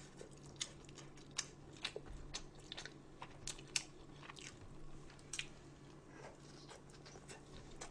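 A person chewing food, with faint, irregular crunches and mouth clicks.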